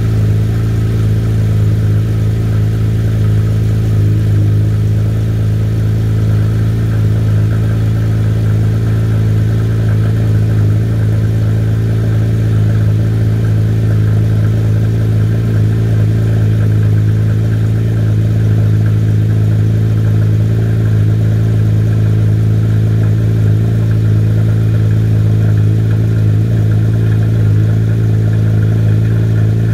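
Porsche 997.2 GT3 RS's 3.8-litre flat-six idling steadily at the exhaust, with no throttle blips, on a cold start after eleven months laid up.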